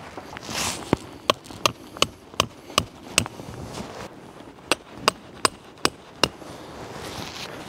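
Two runs of sharp, evenly spaced knocks, about two and a half a second, each with a brief ringing tone: six strikes, a pause of about a second and a half, then five more.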